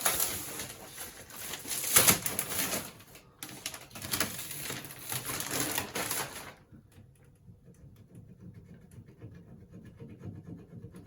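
Cardboard and foam packaging scraping and rustling as it is worked off a new tumble dryer, with a sharp knock about two seconds in. It drops to faint crackling after about six and a half seconds.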